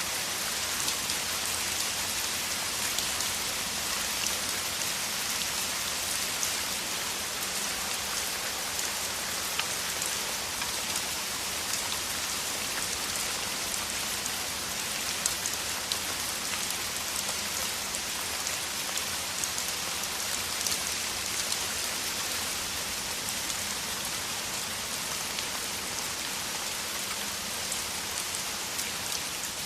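Heavy rain, a downpour falling steadily: a dense even hiss with many individual drops ticking through it.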